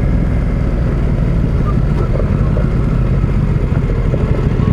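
KTM 890 Adventure R Rally's parallel-twin engine running steadily while the motorcycle is ridden along a dirt track.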